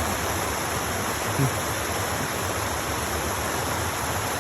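Water rushing steadily through a spillway, a constant hiss with no break. A brief low thump about a second and a half in.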